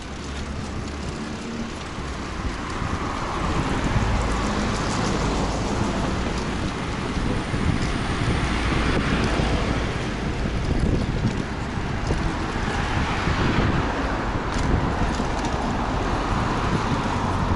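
Street traffic: cars passing one after another, their noise swelling and fading every few seconds, over a steady low rumble of wind buffeting the microphone.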